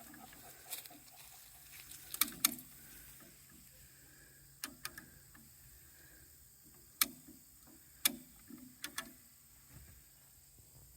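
A tow chain clinking and knocking a few times at irregular intervals after it has slipped off, over the faint steady low hum of an idling tractor.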